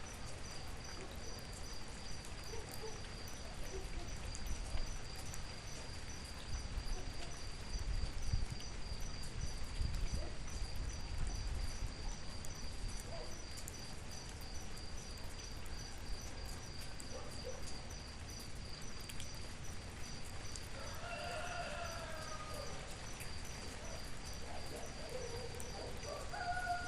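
Outdoor night-style ambience of crickets chirring: a high, steady trill pulsing evenly a few times a second, over a low rumble that swells for a few seconds near the middle. About 21 s in, a short animal call rises and falls.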